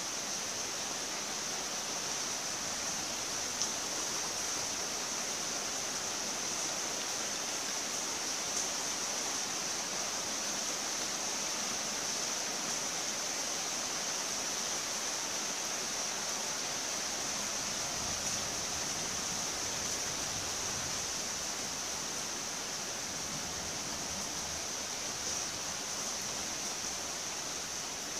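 Steady hiss of falling rain, even throughout, with a few single ticks standing out.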